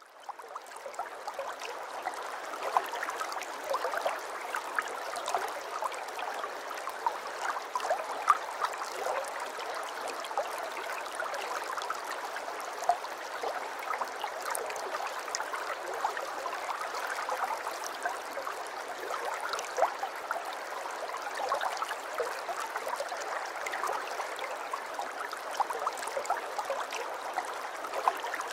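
Aquarium water trickling steadily, with many small splashes and drips; it fades in at the start.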